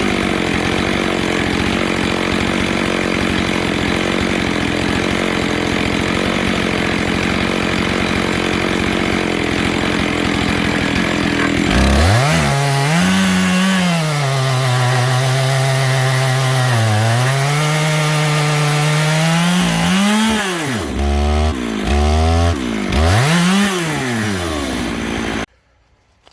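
Two-stroke chainsaw cutting into an oak log under load, then pulled out of the cut about halfway through, its engine note rising and falling with the throttle. Near the end it is blipped a few times and the sound cuts off suddenly.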